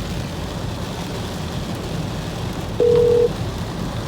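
Mobile phone ringback tone on speakerphone: one short steady ring about three seconds in, cut short as the call is about to go to voicemail. Under it, the steady low rumble of the car's cabin and road noise.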